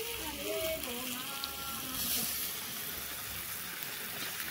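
Beef curry frying in a metal pan, a faint steady sizzle.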